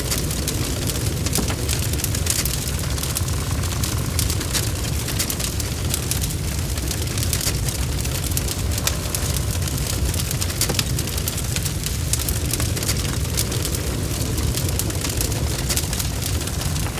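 Wood fire crackling, with many small sharp pops over a steady low rumble, and rain falling in the background.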